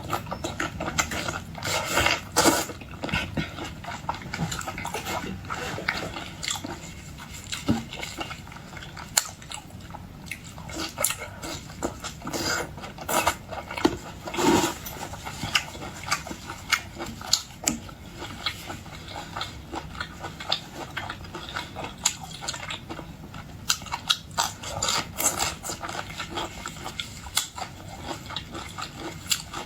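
Close-miked eating of boiled shrimp and lobster: steady chewing and biting, with an irregular run of sharp clicks, smacks and cracks from mouth and shells.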